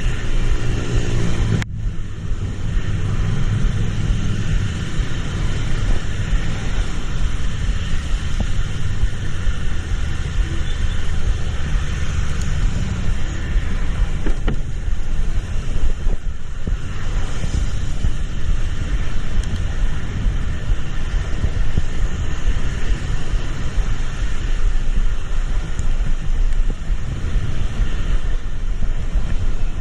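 Steady rumble and rushing wind and road noise of a moving vehicle, with one sharp click about two seconds in.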